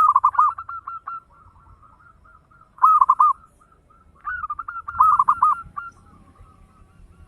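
Zebra dove (perkutut) singing: three loud phrases of quick, rolling coo notes, at the start, about three seconds in and about five seconds in, with fainter coos between them.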